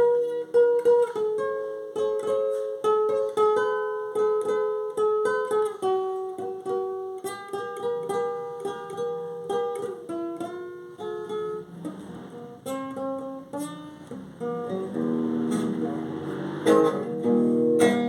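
Instrumental passage on a Brazilian viola caipira: a picked melody of single notes, with a few strummed chords near the end.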